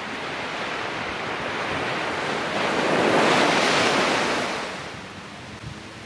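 Ocean wave breaking and washing up the beach, a hiss that builds, peaks about three seconds in and fades away.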